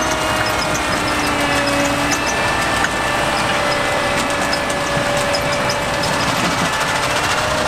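Heavy sugar beet harvesting machinery running steadily: a diesel engine with a held whine, and light ticking scattered through it.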